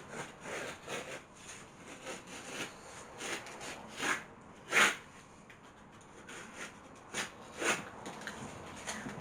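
Hand work with strips of old abrasive sanding belt on pine: irregular short scratching and rubbing strokes, with one louder stroke about halfway through.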